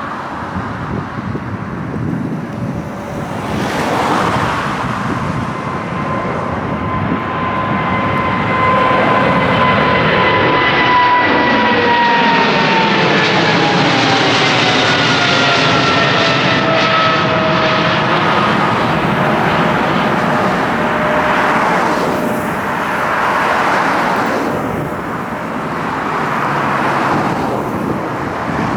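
Widebody jet airliner climbing out after takeoff and passing low overhead: the engine noise builds to its loudest in the middle, and its engine whine falls in pitch as the aircraft goes by.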